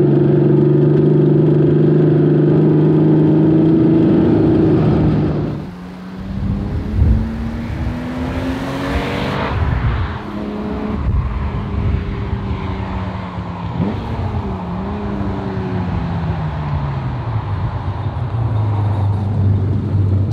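Air-cooled flat-six engine of a Theon Design Porsche 911 restomod. It holds a steady note, then after about five seconds it dips and revs up hard through the gears with a shift along the way. Later it falls away to a low steady note near the end.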